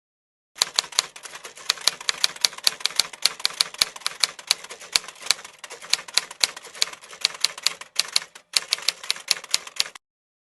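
Typewriter keys clacking in a quick, uneven run of sharp strikes, several a second, with a brief pause about eight seconds in.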